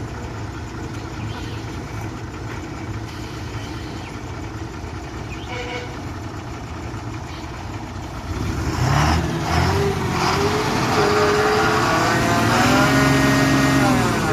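Lorry's diesel engine idling, then about eight seconds in revving up hard, its pitch climbing for several seconds before falling away near the end: the driver is giving it throttle to pull the stuck truck up the slope.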